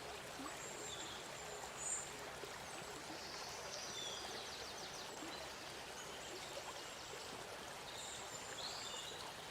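River water flowing steadily, a faint even rush, with a few faint high chirps scattered through it.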